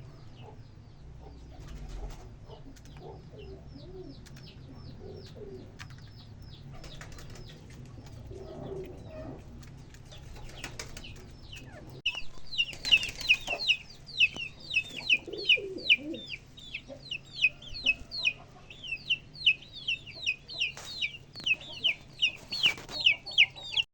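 Young chicks peeping: a constant run of short, high, falling cheeps, faint at first and much louder and busier from about halfway. A few lower calls come in among them.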